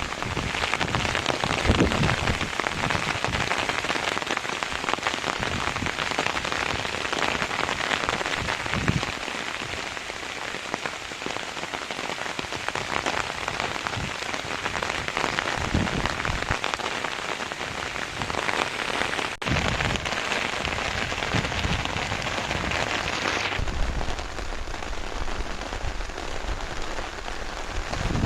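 Heavy rain falling steadily, a dense hiss of countless drops. About three-quarters of the way through, the sound turns duller, with less hiss and more low rumble.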